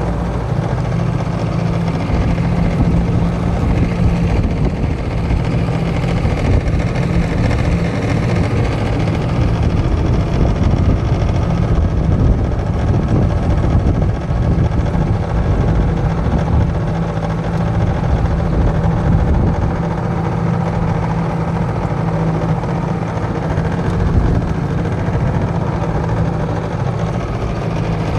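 1978 Mercury 7.5 hp two-stroke outboard motor running steadily at cruising speed, pushing a jon boat along.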